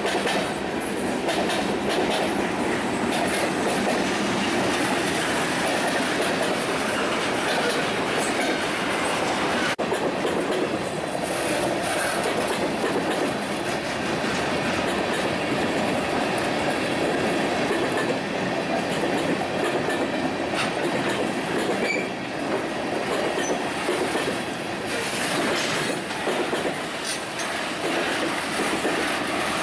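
A train's cars rolling past, the wheels clicking steadily over the rail joints under a continuous rumble of rolling noise.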